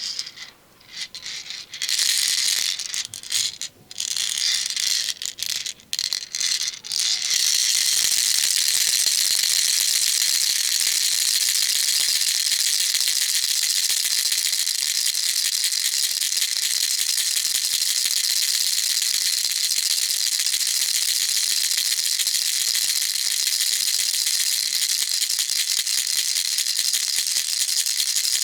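Baby rattle being shaken: a few short, stop-start shakes for the first several seconds, then shaken continuously and evenly in a dense, bright, high rattle.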